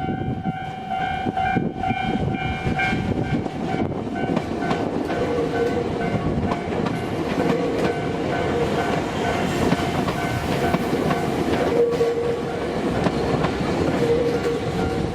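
Nagano Electric Railway train running on the track, a continuous rumble with wheels clacking over the rails. A steady pitched tone with overtones sounds over it until about three seconds in.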